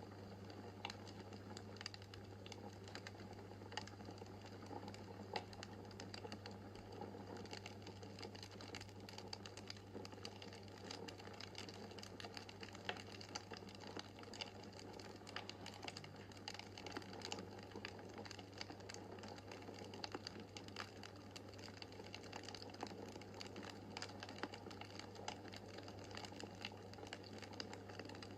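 Wood fire crackling in a fireplace: a steady stream of small irregular pops and crackles, with a few sharper snaps, over a low steady hum.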